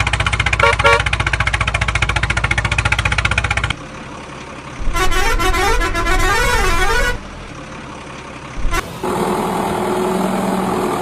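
A vehicle engine running with a fast, even chug, then after a short lull a horn that warbles up and down for about two seconds, and the engine sound again near the end.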